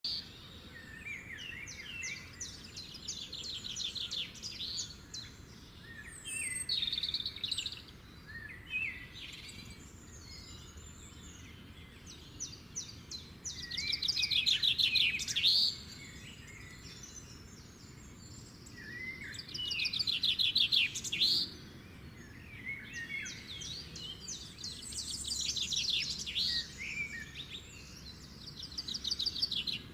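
Birds singing: phrases of rapid, high trills and chirps repeated every few seconds, with the loudest phrases a little before and after the middle.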